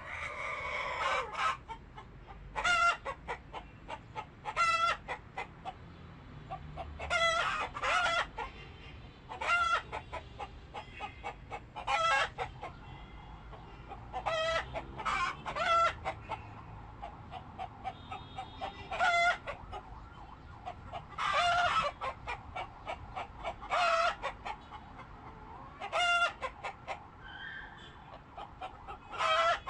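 Domestic chickens clucking and calling, with short calls every second or two, some of them quick runs of repeated clucks.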